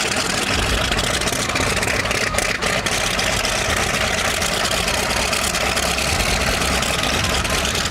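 An aircraft engine running steadily, heard as an even, unchanging rushing drone.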